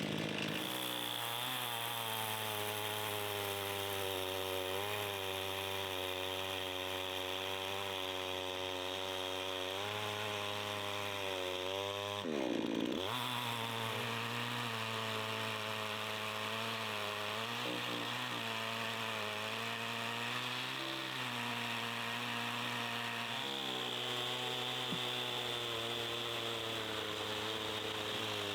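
Chainsaw engine running at steady high speed, its pitch wavering slightly; about twelve seconds in it drops sharply in pitch and revs straight back up.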